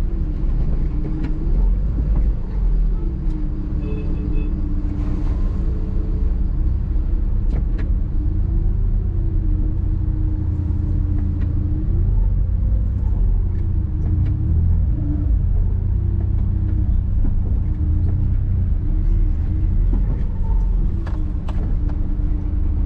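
Engine of a 2012 CNG-fuelled car running in stop-and-go traffic, heard from inside the cabin: a steady low rumble with an engine note that rises and falls again and again as the car creeps forward.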